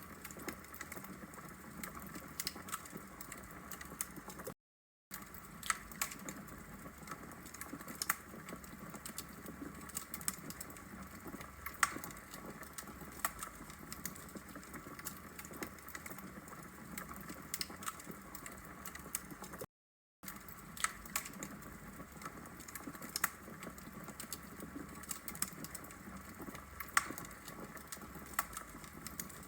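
Wood fire crackling as logs burn in a brick fireplace: frequent irregular sharp pops and snaps over a steady soft hiss. The sound cuts out completely twice, for about half a second each.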